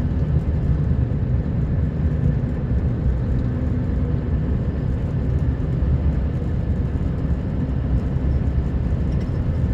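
Scania R560 truck's V8 diesel engine running steadily as the truck drives along, with a continuous low-pitched drone of engine and road noise.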